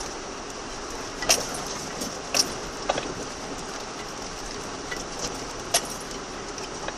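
Car driving over a rough track, heard inside the cabin: steady engine and tyre noise with a few sharp rattles and knocks from the car jolting.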